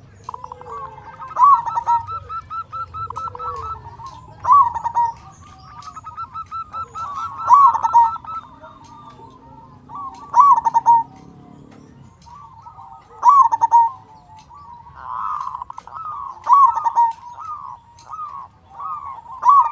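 Zebra dove (perkutut) cooing: a loud rolling coo phrase repeats about every three seconds, with rapid trains of short, quick coo notes in between.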